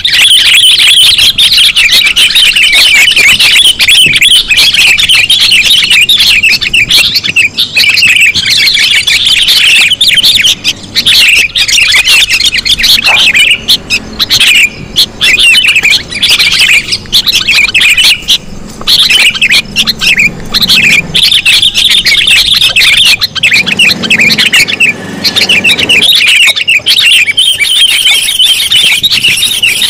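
Loud, dense, rapid chattering and squawking of sooty-headed bulbuls (kutilang), played as a bird-trapping lure call. It runs almost without pause, thinning briefly a few times in the middle.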